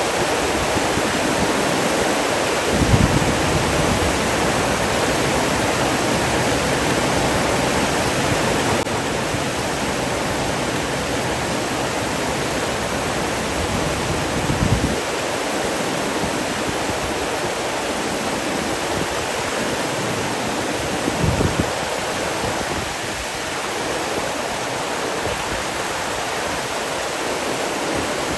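Rushing water, a steady even roar like a waterfall or fast stream. Three brief low thumps break through it: a few seconds in, about halfway, and about three quarters of the way through.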